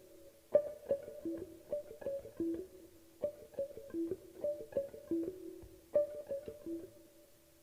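Guitar playing a short, repeating plucked figure of a few notes, the phrase starting over about every two and a half seconds and dying away near the end.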